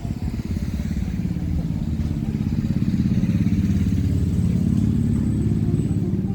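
A motor vehicle engine running close by, a low, evenly pulsing sound that grows louder about halfway through.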